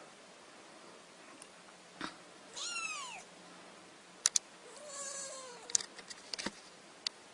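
Domestic cat meowing twice, each call falling in pitch, the second longer and lower, with a few sharp clicks in between.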